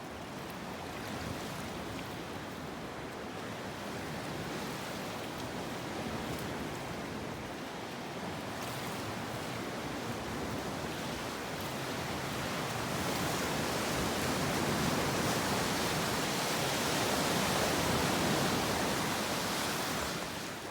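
Lake waves washing ashore: a steady rushing surf that swells louder in the second half and eases off near the end.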